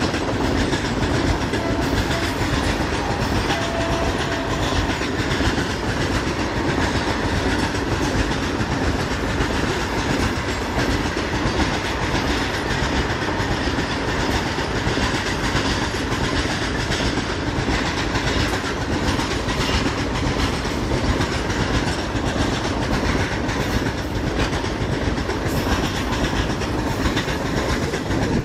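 Wagons of a loaded freight train rolling past in a steady heavy rumble, with the wheels clattering over the rail joints.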